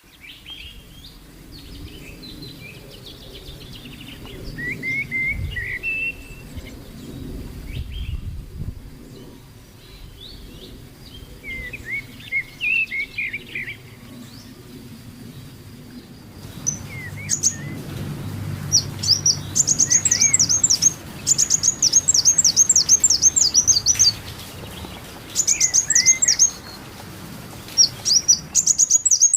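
Birds calling with short, sliding chirps. About halfway through, the calls change to rapid runs of high, sharp chirps repeated in quick series.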